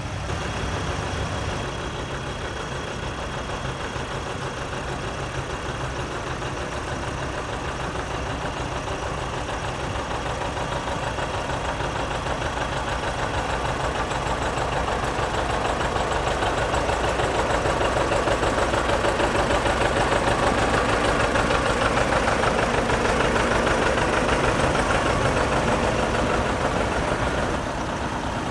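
Antique tractor engine running with a fast, even chug. It grows louder as it comes close past the microphone, then drops off shortly before the end.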